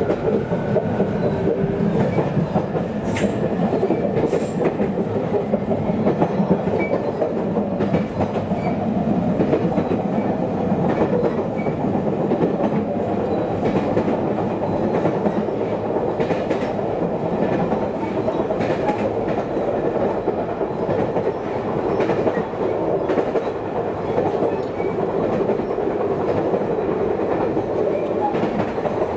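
Running noise of a local electric train heard from inside the passenger car: a steady rumble with wheels clicking over the rail joints. A faint whine fades out in the first couple of seconds.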